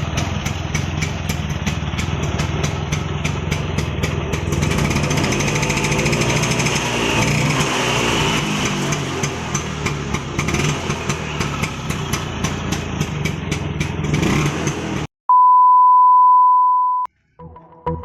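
1979 Vespa Super scooter's single-cylinder two-stroke engine running, its pitch sweeping up and down in the middle as it is revved. It cuts off abruptly after about fifteen seconds and is followed by a steady beep tone lasting under two seconds.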